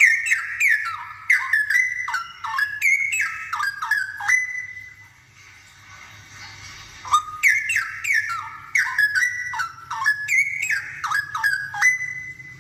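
Straw-headed bulbul (cucak rowo) singing loudly in two long phrases of rich, liquid whistled notes that slide downward. Each phrase ends on a held note, with a pause of about two seconds between them.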